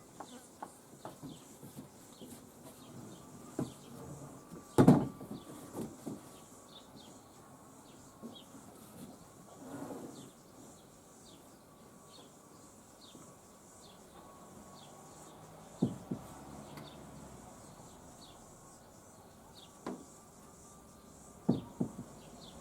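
Scattered knocks and one loud thump about five seconds in, with a few sharper knocks later, as a kayak is turned and set onto a timber rack on a ute. Short high chirps repeat faintly throughout.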